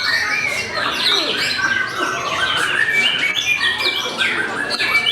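Several caged songbirds, white-rumped shamas (murai batu), singing at once, a dense mix of overlapping whistles and chirps.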